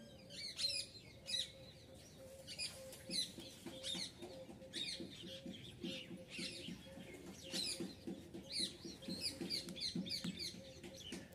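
Small birds chirping in quick, repeated short calls, with a faint steady hum underneath.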